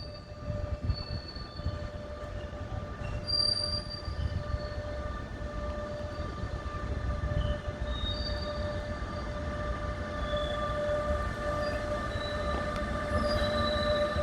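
A train moving through the station: low rumble under a steady electric hum with overtones that slowly grows louder, with short high squeals from the wheels on the rails.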